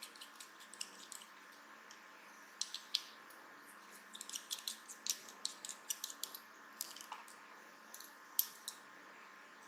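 Faint, irregular small clicks and scrapes of a precision screwdriver and small tools working on a Samsung Gear S3 smartwatch's tiny internal screws. The clicks come in clusters, busiest from about two and a half seconds in.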